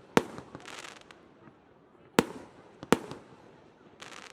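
Fireworks going off: a sharp bang just after the start and two more about two and three seconds in, each followed by a short crackling trail.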